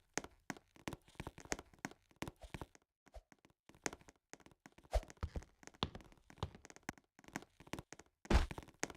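Scattered light taps and knocks, irregular and fairly faint, with a louder thump about five seconds in and another near the end.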